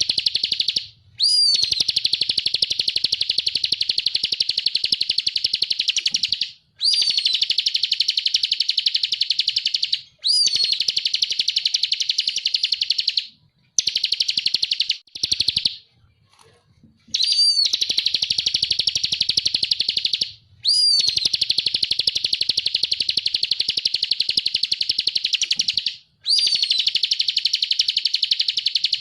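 Ciblek (bar-winged prinia) singing in its full 'ngebren' style: long, very rapid buzzing trills of several seconds each, each opening with a short high down-slurred note, repeated about seven times with brief pauses between.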